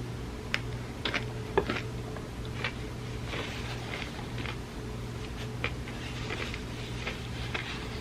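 Close-miked eating sounds of chocolate cake in milk: scattered short clicks and soft wet mouth noises, with a sharper click about a second and a half in. A steady low hum lies underneath.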